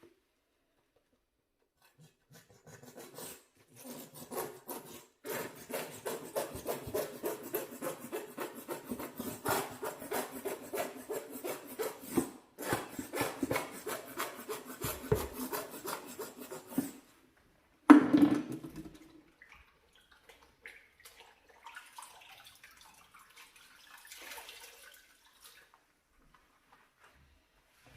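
A brush scrubbing a grimy kitchen range in fast back-and-forth strokes for about fifteen seconds, with a short pause partway through. The scrubbing stops, a single sudden loud thump follows, then faint rubbing near the end.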